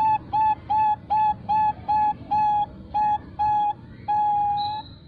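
Female Bangkok-bred zebra dove (perkutut) cooing: a fast run of short, clear notes at about two and a half a second, ending near the end in one long drawn-out note, the 'long ending' (ujung panjang) prized in these birds.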